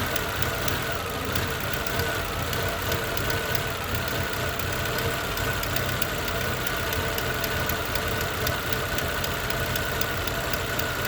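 Chevrolet Utility 1.4 petrol engine idling steadily with its leaking vacuum hose closed off, the leak that had been causing its rough, jerking idle.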